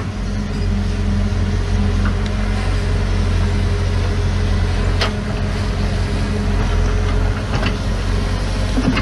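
Heavy diesel engine of earthmoving machinery running steadily at low speed, with a couple of faint clicks about five seconds in and near the end.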